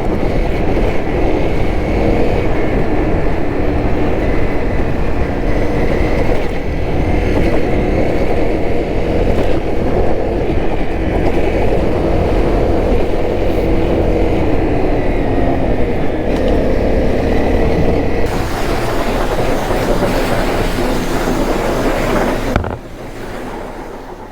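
Honda CRF250L's 250 cc single-cylinder engine running while the bike is ridden, with steady road and wind noise. About 18 seconds in, the hiss of wind grows stronger. A few seconds later the sound drops suddenly and begins to fade out.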